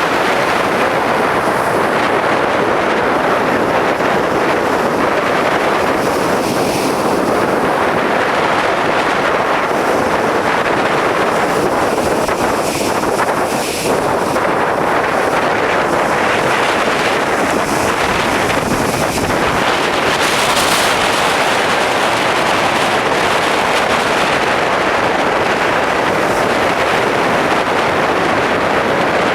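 Strong bora wind blowing hard across the microphone: a loud, steady rush of wind noise with gusts and a brief lull about 14 seconds in.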